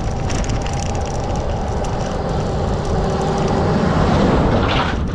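Motor traffic passing close on the road, with a steady engine note and tyre noise.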